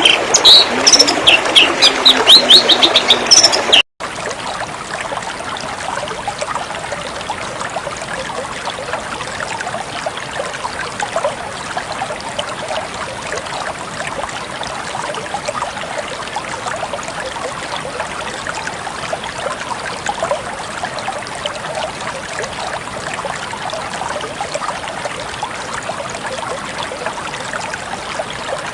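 Songbird chirping loudly with a quick trill of repeated notes for the first four seconds, then a sudden break and a steady trickling stream for the rest.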